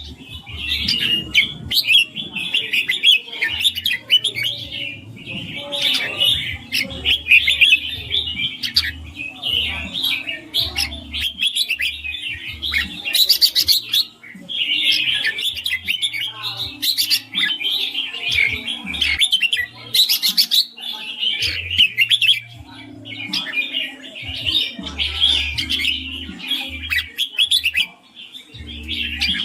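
Red-whiskered bulbul singing in rapid, almost unbroken phrases, pausing briefly about halfway through and again about two-thirds of the way in.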